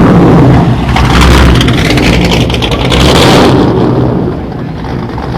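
A car engine revving loudly in about three surges, easing off near the end.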